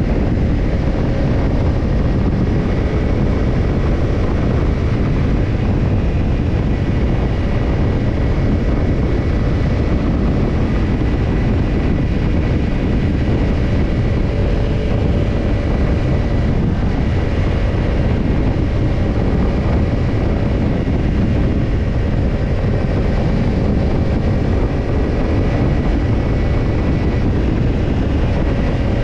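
Kawasaki Ninja 250 parallel-twin engine running steadily through a BEET NASSERT Evolution Type II titanium slip-on muffler. The pitch holds almost constant over a dense, even rush of noise.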